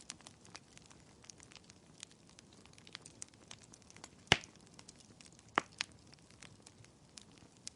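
Fireplace wood fire crackling: scattered small ticks and pops, with one sharp loud pop a little past midway and a smaller one about a second later.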